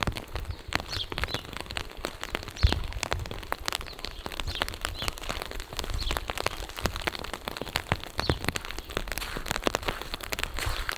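Steady rain falling, with many separate drops ticking close by at an irregular rate.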